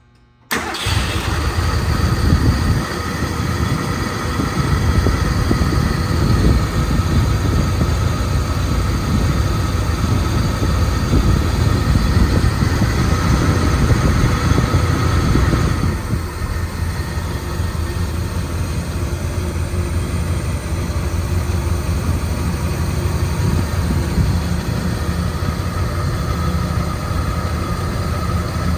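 A 1967 Lincoln Continental's 462 V8 starting from cold: it fires up suddenly about half a second in and runs at a fast, loud idle. About sixteen seconds in it steps down to a lower, quieter idle, which it holds steadily.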